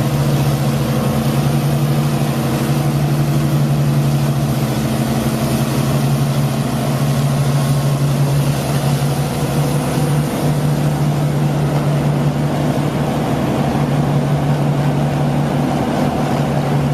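Engine of a heavy machine running steadily at a constant speed, with a strong low hum.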